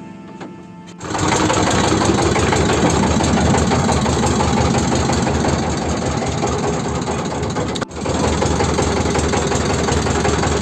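The engine of a pompong, a small motorised wooden riverboat, runs steadily. It comes in about a second in and breaks off briefly about eight seconds in before carrying on.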